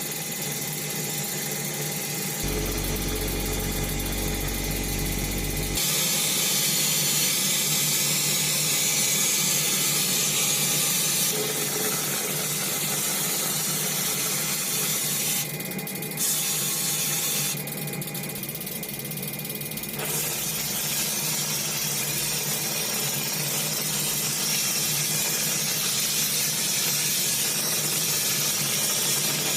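Workshop tool noise: a steady hiss with a motor hum beneath it, changing abruptly several times as short clips follow one another.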